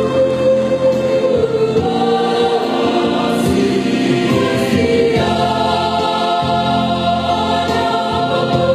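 A choir singing sustained chords, moving to a new chord about halfway through.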